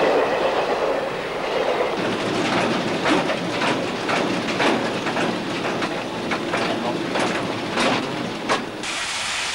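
Swiss 'Krokodil' electric locomotive and its coaches passing, the wheels clattering irregularly over the rail joints. Near the end the clatter gives way to a steady hiss.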